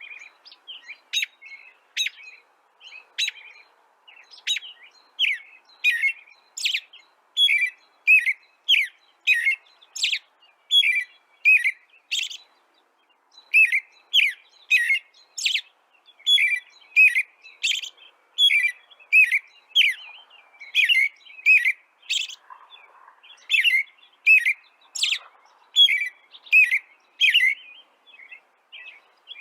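A bird chirping over and over in short, sharp, upward-sweeping chirps at about two a second, with a brief pause a little before the middle.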